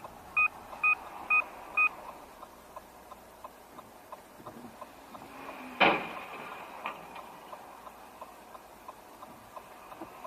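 Five short electronic beeps about half a second apart, then a faint regular ticking, then a single sharp bang about six seconds in, with a smaller knock a second later: a road collision picked up by a car's dashcam microphone.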